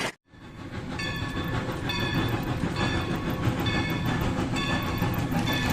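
Rail King toy train running on its track: a steady low motor-and-wheel noise, with a short pitched tone that comes back about once a second.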